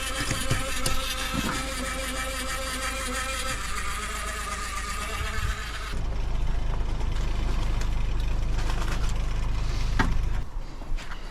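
Petrol-engined pressure washer running with a steady buzz. About six seconds in the sound changes abruptly to a rougher, noisier rumble.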